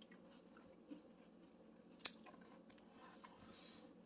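Faint chewing and crunching of crispy fried rice cracker balls, with a sharp click about two seconds in.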